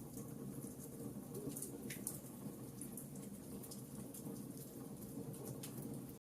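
Wood fire crackling in a fireplace: a steady low rumble of burning with frequent small pops and snaps, one sharper pop about two seconds in.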